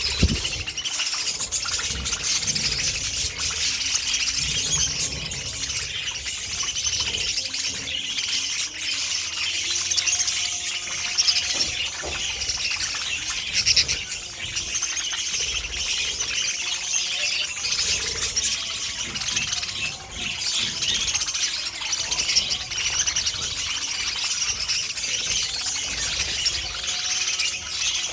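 A flock of budgerigars (budgies) chattering and chirping continuously, many quick overlapping chirps at once.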